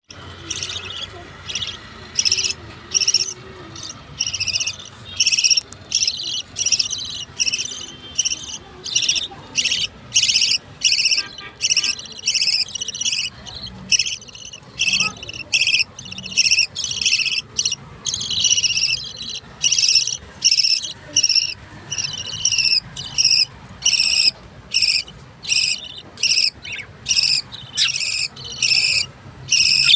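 Budgerigar chicks begging to be fed: short high-pitched calls repeated about one and a half times a second.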